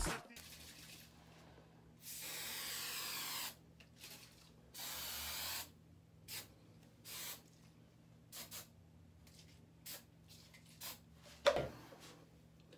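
Aerosol hairspray can sprayed in bursts: two longer hisses of one to two seconds, about two and five seconds in, then several short puffs. A sharp click comes near the end.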